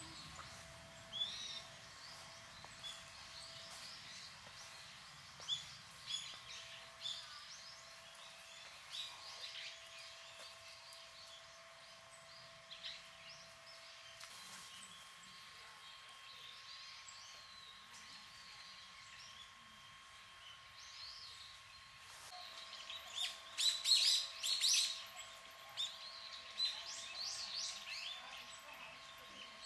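Small birds chirping: short, high calls scattered throughout, with a busier flurry of calls about three-quarters of the way through.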